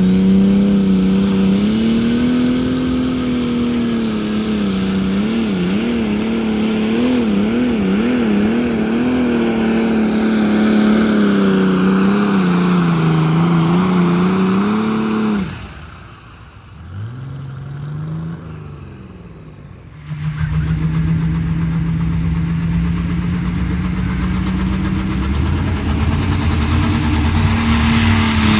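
A pulling tractor's engine runs hard under load, its pitch surging up and down several times in quick succession partway through. About fifteen seconds in the engine drops off abruptly to a low, quiet note, and some five seconds later a steady engine note picks up again.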